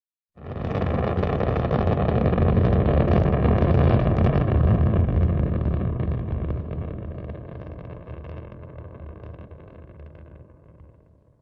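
Rocket launch noise: a deep rumble that comes in abruptly, swells over a few seconds, then slowly fades away.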